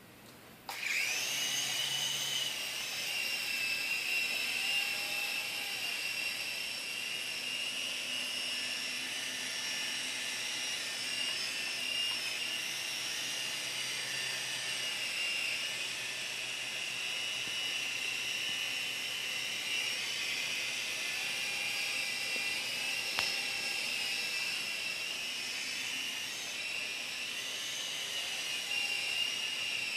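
Small electric RC helicopter starting up suddenly under a second in, then its motor and rotors running steadily with a high-pitched whine that wavers slightly in pitch.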